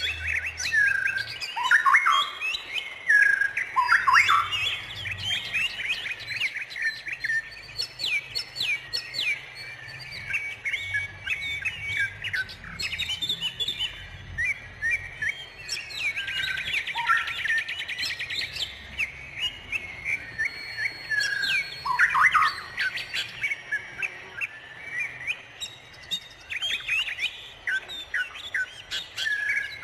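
A dense chorus of many wild songbirds chirping and calling over one another, with short chirps, whistles and sweeping notes. A fast trill stands out about sixteen seconds in and lasts a few seconds.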